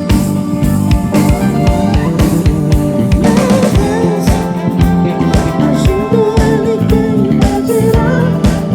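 Live band music with a steady drum-kit beat, bass, guitars and keyboards. A wavering melody line, sung or played, comes in about three and a half seconds in.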